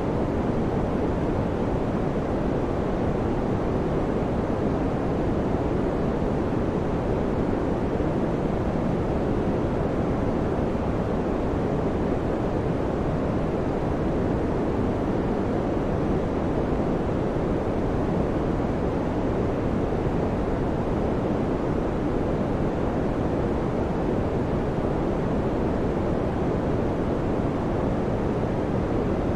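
Electric fan running: a steady, low, even whoosh of air with no change throughout.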